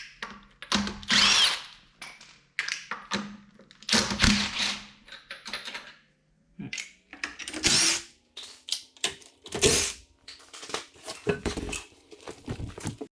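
A power tool runs in short bursts of about a second, four times, with short clanks and knocks between them, as the car's wheel lug nuts are loosened and spun off.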